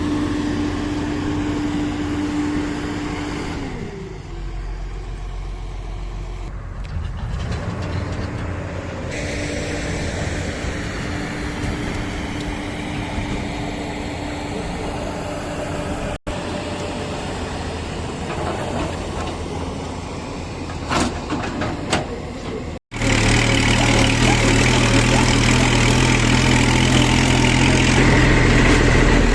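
Diesel engines of heavy construction machinery running steadily, broken by two brief cuts; a few short knocks come just before the second cut, after which a louder engine runs on.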